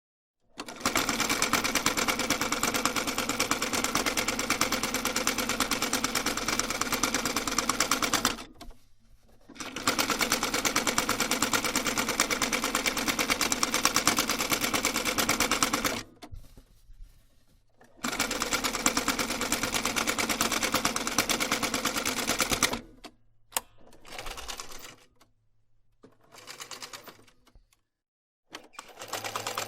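A small machine running with a fast, even clatter, in three runs of several seconds each with short pauses between, then a few short stop-start bursts near the end.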